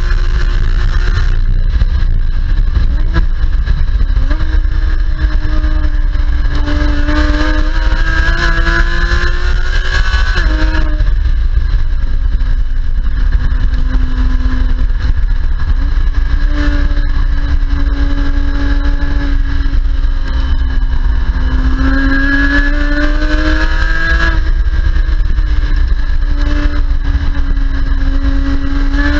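Porsche Cayman S engine heard from inside the car on a fast track lap, repeatedly climbing in pitch under hard acceleration and then dropping sharply on lifting or shifting, over a heavy low road rumble.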